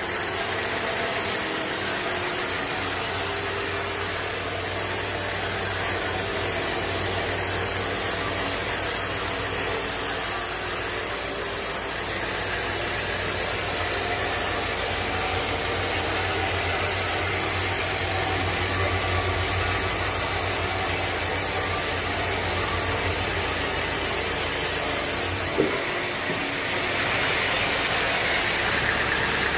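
Sawmill machinery running steadily, a low engine hum under a continuous hiss. A sharp click comes near the end, after which the sound changes character.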